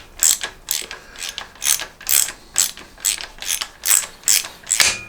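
Hand ratchet clicking steadily, about two to three clicks a second, as small screws are run in and snugged into aluminium by hand.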